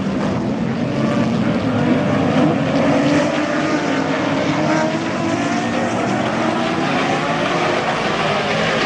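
A field of sports-prototype and GT race cars at full throttle just after the race start, many engines at once. Their overlapping pitches slide up and down as cars accelerate and shift.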